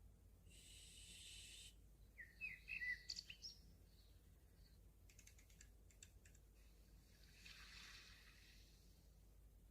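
Faint handling noises: a short rustle, a few quick squeaky chirps, a run of light taps, then another soft rustle.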